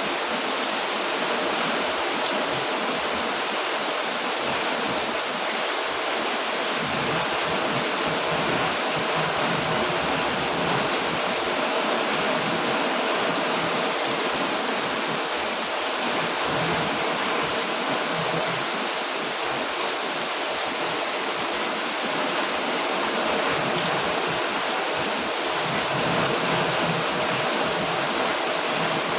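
Heavy rain falling in a steady downpour, an even rushing hiss with no distinct drops or thunder.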